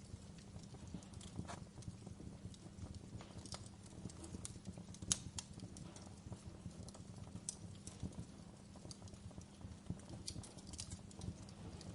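Wood fire crackling in a fireplace: irregular pops and snaps over a low steady rumble, with one sharper pop about five seconds in.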